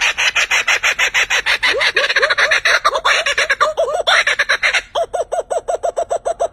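A bird calling loudly in a fast, even series of harsh, arched notes, about eight a second, with a brief break about five seconds in.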